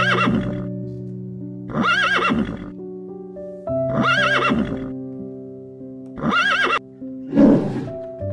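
A horse whinnying four times, about two seconds apart, each the same short wavering call, over soft piano music. A short, rougher animal call comes near the end.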